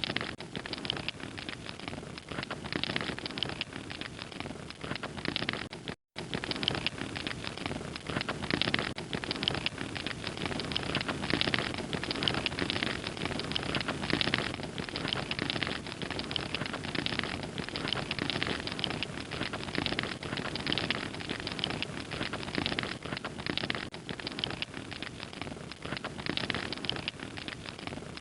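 Fire crackling steadily with dense, continuous small pops and snaps. The sound cuts out completely for a split second about six seconds in.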